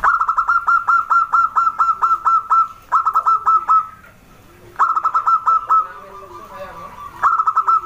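Zebra dove (perkutut) calling: rapid runs of short, staccato cooing notes, about eight a second, a long run first and then three shorter bursts with brief pauses between.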